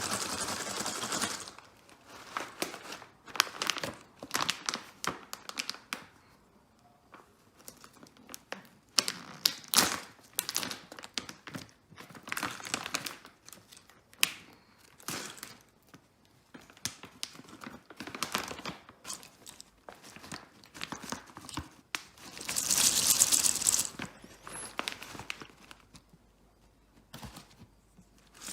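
Packaging being handled close up: repeated crinkling and crackling in short bouts with pauses between, and one longer, louder tear about two-thirds of the way through.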